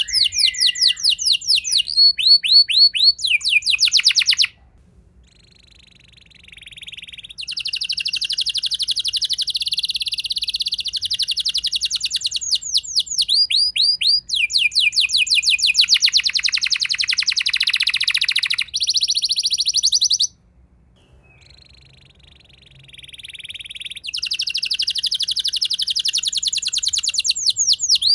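Domestic canary singing a rolling song: long, fast trills of repeated falling notes, each phrase changing speed and pitch. The song breaks off abruptly twice into short lulls before starting again.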